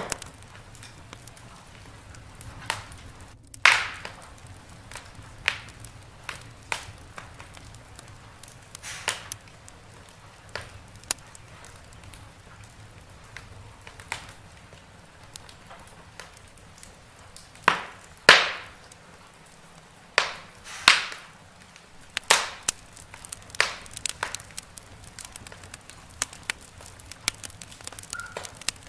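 Wood fire crackling in a fireplace: irregular snaps and clicks, with a few louder pops.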